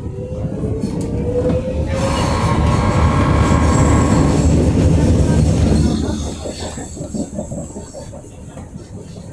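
Berlin U-Bahn H95 train running, with a slowly rising whine at first, then loud rumbling and high-pitched squealing for about four seconds that falls away about six seconds in.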